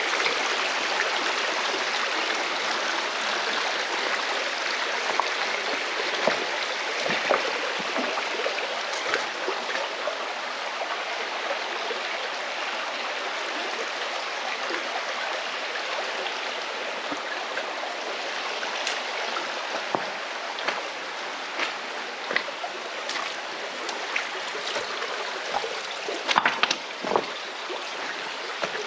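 Mountain stream rushing and splashing over rocks in a gorge, a steady full water noise with a few sharper clicks and splashes, a small cluster of them near the end.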